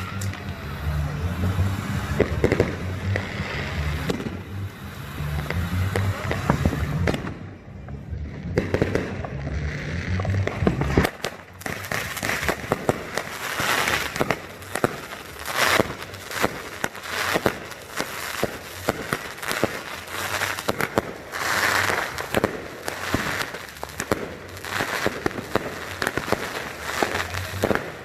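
Fireworks going off: many sharp bangs and crackles in quick succession, coming thickest after about eleven seconds. Music with a stepping bass line plays under them at first and stops about eleven seconds in.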